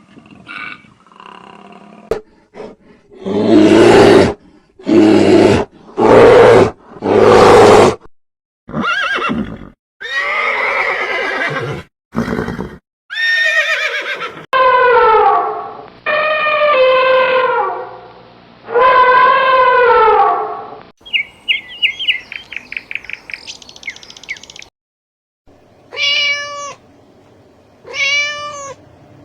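A run of different animal calls, one after another. Four loud, rough calls come first, then several long pitched calls that fall in pitch, a quick run of high chirps, and two short pitched calls near the end.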